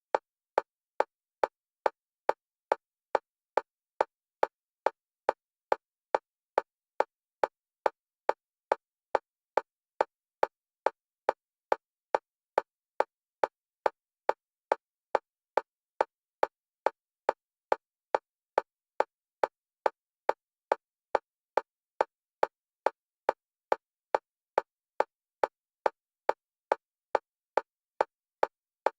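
Metronome-style clicks on a single pitch for EMDR bilateral stimulation, alternating between the left and right stereo channels. The clicks are short, even and fast, a little under two a second.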